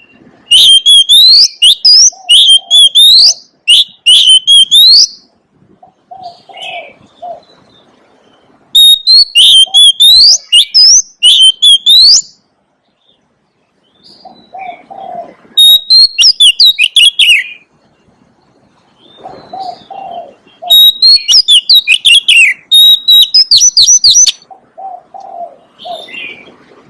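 Oriental magpie-robin singing: four loud bursts of rapid, sweeping whistled notes, each a few seconds long, with pauses between them. Softer low cooing notes sound in the gaps.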